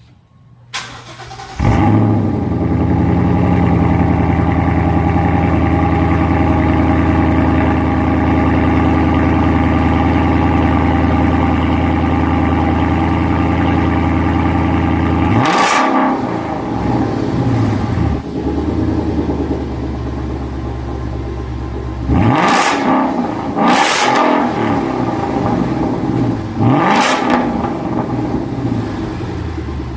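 A 2011–2014 Ford Mustang engine starts up: it cranks and catches about two seconds in, then settles into a steady fast idle. About halfway through and three times near the end, the throttle is blipped into sharp revs that climb and fall back to idle.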